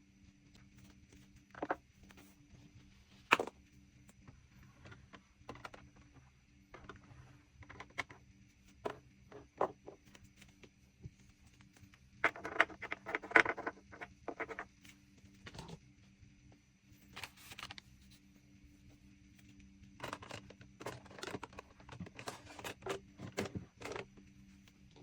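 Small objects being handled and set down on a vanity table: scattered taps and knocks, with a short burst of rattling clatter about halfway through and a run of quicker taps near the end, over a faint steady hum.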